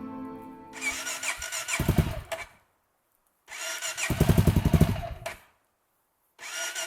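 Electric starter cranking a cold Honda XR motorcycle engine three times, each try a starter whine followed by fast pulsing as the engine turns over without catching. The bike is reluctant to start in the cold, and the battery is being worked hard.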